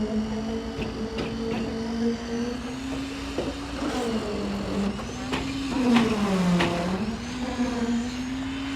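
Concrete pump's engine running at a steady high speed, its pitch sagging twice as it takes load, most deeply about six and a half seconds in, with a few sharp knocks over it.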